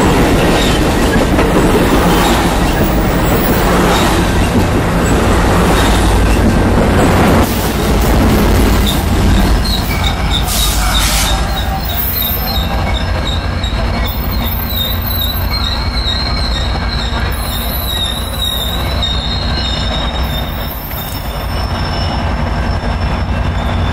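Amtrak Pacific Surfliner passenger train running past close by, the cars' wheels rumbling and clacking over the rails under the low drone of its EMD F59PHI diesel locomotive. From about ten seconds in, a thin, high wheel squeal rises as the train brakes to its stop at the platform.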